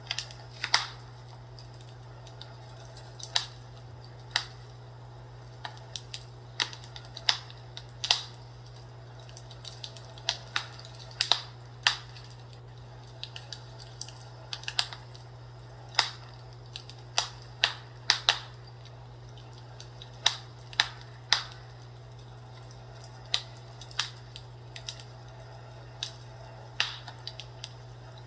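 Fireplace crackling: irregular sharp pops and snaps, over a steady low hum.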